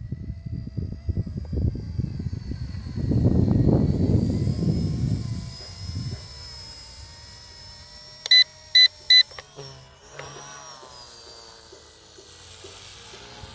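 Small remote-control helicopter flying: heavy low fluttering of the rotor and its downwash for the first six seconds, three short electronic beeps a little after eight seconds, then a quieter steady high whine of its motor.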